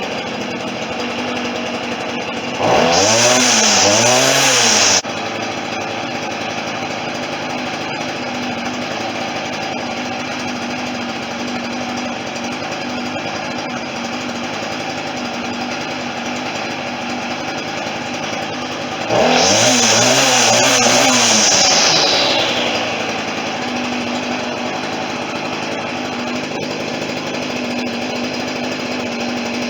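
A Stihl FS40C two-stroke string trimmer idles and is revved twice to high speed for about two seconds each time: once about three seconds in, dropping off abruptly, and again near twenty seconds, dying back slowly. It is running during carburetor adjustment for throttle response, and the owner still hears a slight bog.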